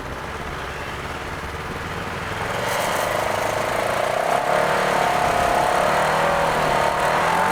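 Vehicle engine revving up and holding high revs under load, with a steady whine, while a stuck vehicle is pulled out of deep snow on a tow strap. The engine gets louder about two and a half seconds in.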